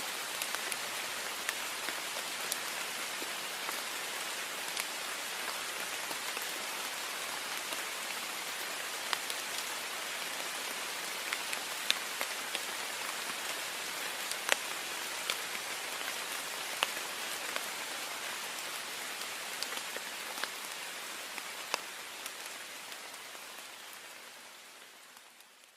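Heavy rain on a window: a steady dense hiss with scattered sharper drop ticks, fading out over the last few seconds.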